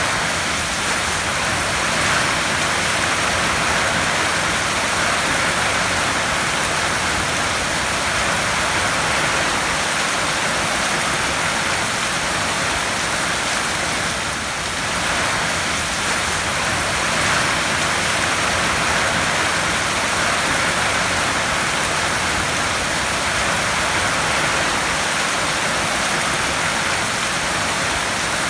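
Heavy rain drumming steadily on a tin roof, a dense even hiss that swells and eases slightly every several seconds.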